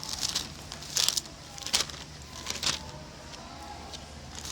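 Bible pages being turned, four short paper rustles over a steady low room hum.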